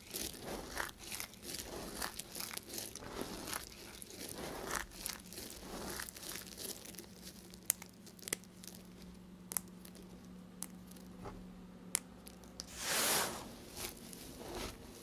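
A knife cutting through bars of soap: a run of short crunchy, scraping strokes with a few sharp clicks between them, and one longer, louder cut near the end.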